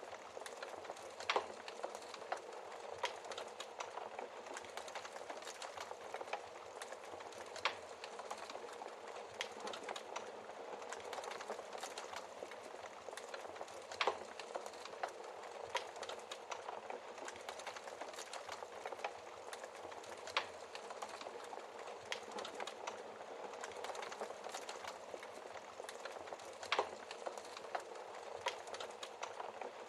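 Wood fire crackling steadily in a fireplace, a dense patter of small snaps with a louder pop every several seconds.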